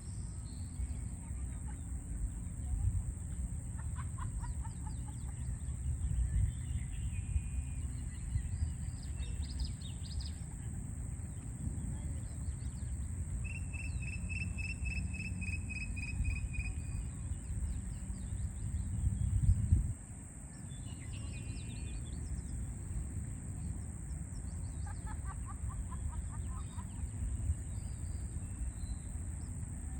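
Birds chirping and calling over a steady low rumble of city traffic, with one run of about a dozen quick, even notes near the middle. The rumble swells and then cuts off abruptly about two-thirds of the way in.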